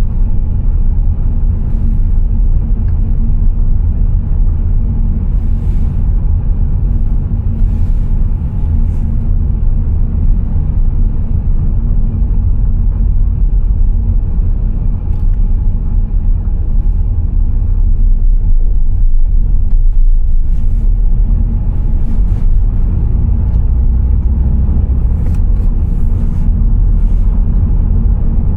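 Steady low rumble of a car driving, engine and road noise without much change.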